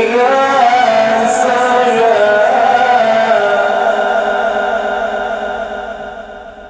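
A man's voice reciting the Quran in a drawn-out melodic style: one long ornamented phrase whose pitch wavers and bends, then a held note that fades away over the last two seconds.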